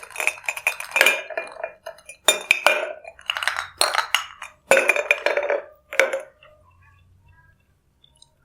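Glassware and utensils clinking in several quick bursts of ringing strikes, which stop about six seconds in.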